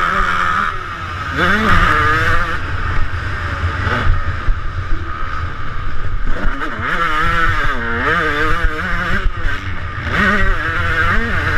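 Small two-stroke motocross bike engine revving hard around a track, its pitch climbing and falling repeatedly as the throttle opens and closes, with deeper dips about a second and a half in and again around eight seconds.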